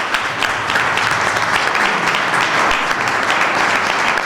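Audience applauding steadily: a dense patter of many hands clapping at once.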